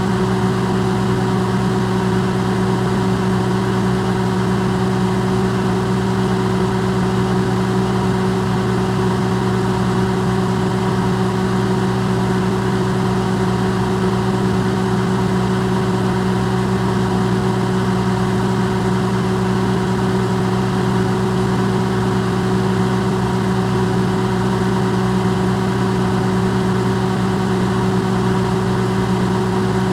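Electrolux microwave oven running, recorded amplified: a steady, unbroken low hum with a fainter higher tone over a soft whirring hiss.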